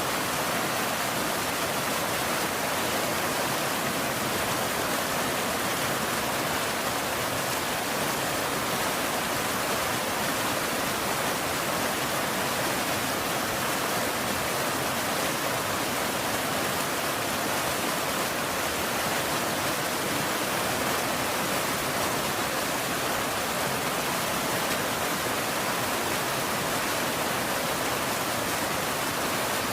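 Steady, even hiss of rain falling, with no thunder and no separate drops standing out.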